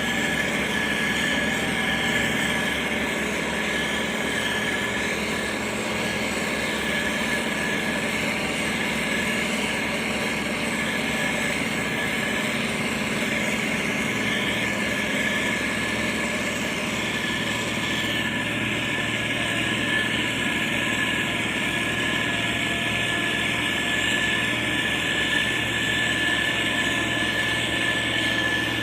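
Motor grader's diesel engine running steadily, with a steady high-pitched whine over the engine noise.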